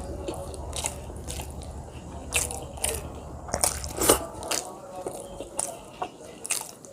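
Close-miked eating: a person chewing, with an irregular string of sharp crunches and mouth clicks, the loudest about four seconds in.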